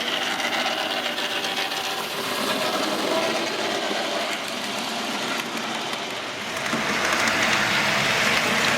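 An OO gauge model train running on the layout's track: a steady whirring rattle of the small motor and wagon wheels on the rails, getting louder about seven seconds in as the train comes closer.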